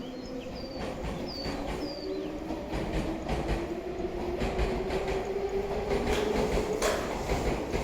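Tobu Ryomo limited express train passing, its wheels clattering over the rail joints with growing frequency. A motor whine rises slowly in pitch as the train gets louder.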